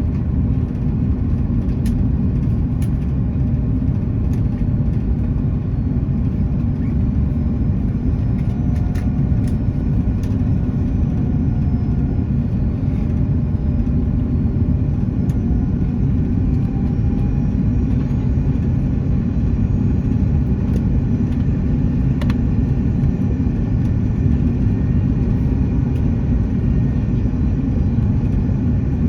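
Airbus A330 cabin noise: a steady low rumble of engines and airflow, heard from inside the cabin, with a few faint clicks and rattles.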